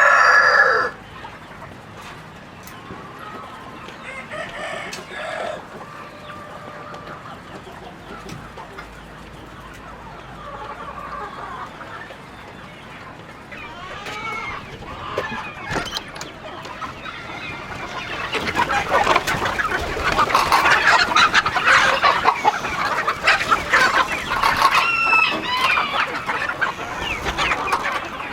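Free-range chickens: a rooster's crow ends about a second in, followed by scattered clucking that builds into a loud, dense chorus of clucks from many birds in the second half.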